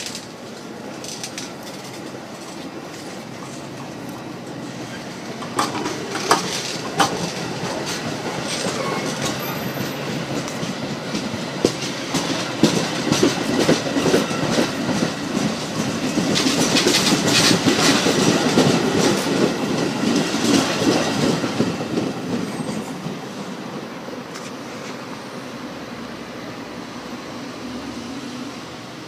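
Metra train of stainless-steel bilevel gallery coaches passing close alongside the platform, its wheels clicking over the rail joints. The rumble builds to its loudest about two-thirds of the way through, then fades quickly as the last car goes by.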